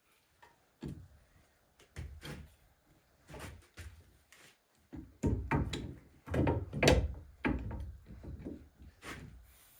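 Heavy steel transmission parts knocking and clunking against each other as the bottom shaft (countershaft) of an NV4500 gearbox is worked into the case. A few scattered knocks come first, then a quicker run of louder clunks from about five seconds in.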